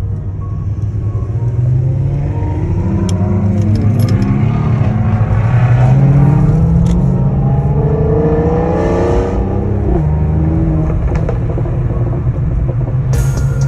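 Car engine accelerating hard, its pitch climbing, dropping at a gear change about five seconds in, climbing again and dropping near the ten-second mark before settling into a steady cruise.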